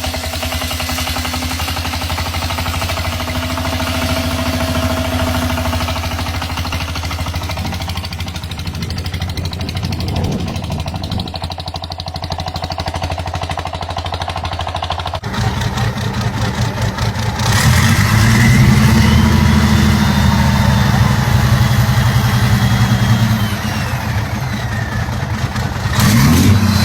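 Engine of a homemade motorcycle running steadily. About fifteen seconds in, the sound changes abruptly to a louder engine run, with some gliding higher tones over it.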